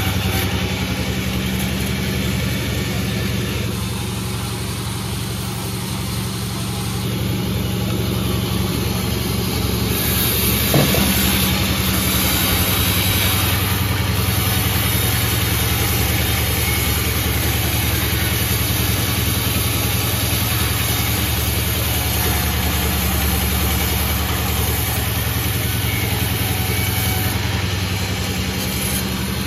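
Sawmill's engine running steadily, with a single sharp knock about eleven seconds in.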